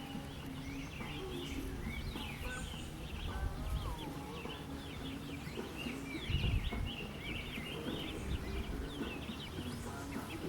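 Chickens clucking in short, low notes over a constant chatter of quick, high bird chirps. A brief low rumble comes a little past the middle.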